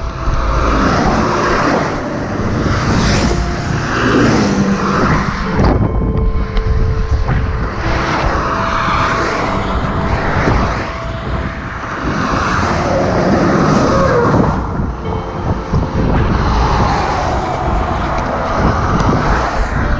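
Motorcycle riding in road traffic: the engine's pitch rises and falls several times over a steady loud rush of road noise.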